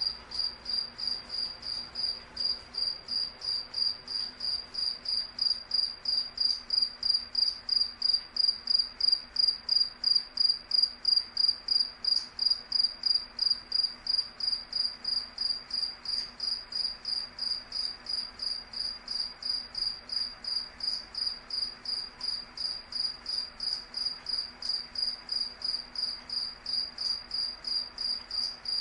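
Cricket chirping in a steady, even rhythm of about three high-pitched chirps a second, a little louder in the middle stretch.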